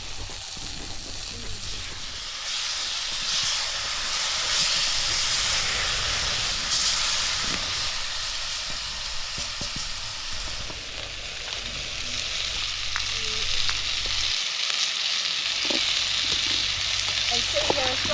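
Meat sizzling and frying in a hot camp-oven pot over an open fire as it browns, a steady crackling hiss that swells and eases, with some stirring.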